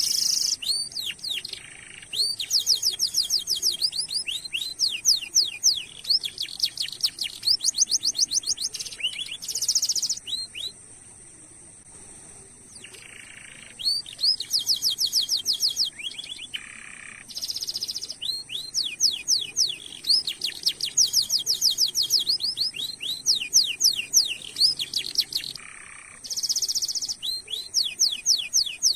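Domestic canary singing long rolling phrases of fast, repeated chirps, with short buzzy notes between phrases and a pause of about two seconds near the middle.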